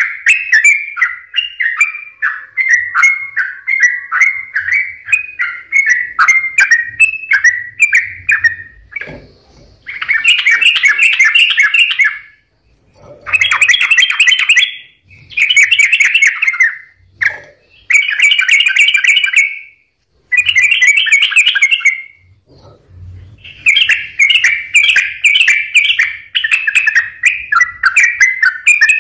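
Yellow-vented bulbul (trucukan) singing in lively, rapid chattering phrases. The notes run almost without a break at first, then come in bursts of one to two seconds with short pauses between.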